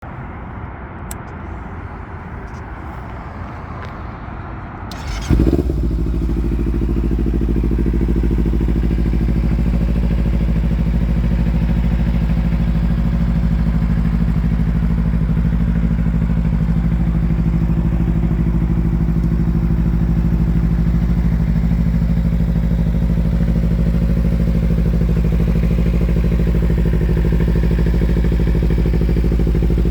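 A 2017 Kawasaki Ninja 300's parallel-twin engine starts about five seconds in, after a few seconds of quieter noise and clicks, then idles steadily.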